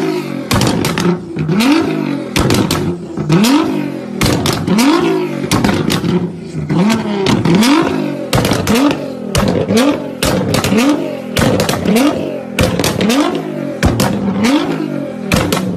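Car engine revved hard through a loud exhaust, blipped about once a second with a quick rise in pitch each time, and sharp cracks and pops from the exhaust between the blips.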